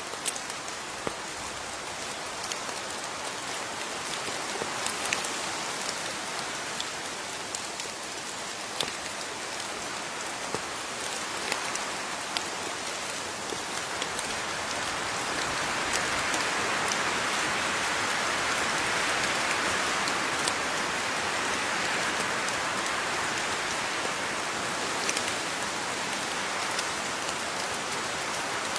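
Steady rain falling, with separate drops ticking sharply against a surface above a dense patter. The rain swells a little around the middle and eases slightly near the end.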